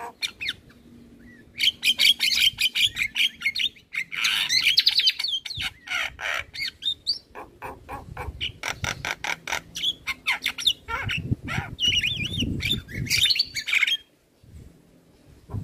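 Male Javan myna singing a long, varied song of rapid clicks, harsh chatter and whistled phrases. It pauses briefly near the end.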